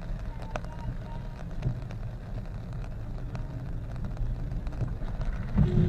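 Steady low rumble of a car on the move, road and engine noise, with a few faint clicks; it grows louder near the end.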